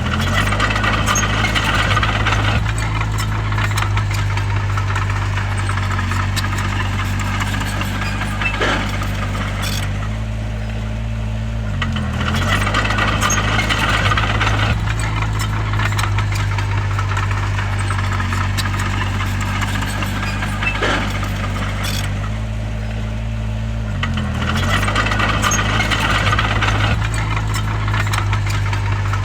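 Bulldozer's diesel engine running with a steady low drone. About every twelve seconds its pitch dips briefly, followed by a few seconds of rattling and grinding.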